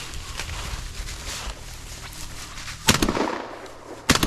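Shotgun shots at flushed chukar: one about three seconds in, then another near the end, each a sharp crack trailing off in echo.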